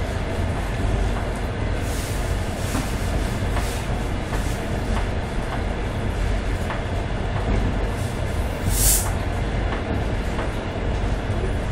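Running noise of a passenger train at speed, heard from aboard: a steady low rumble of wheels on the rails with occasional light clicks, and a short hiss about nine seconds in.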